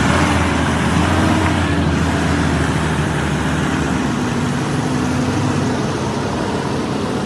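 Large vehicle engine running steadily under load, a low drone with a faint pitched hum that drifts slowly in pitch.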